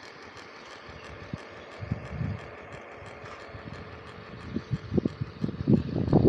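Radio-controlled model truck running, a steady faint mechanical whine, with irregular low rumbles and thumps that grow louder over the last second and a half.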